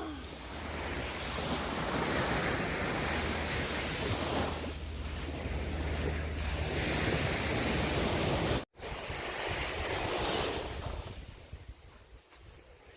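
Sea waves breaking and washing up the sand in surges that swell and ease, with wind buffeting the microphone.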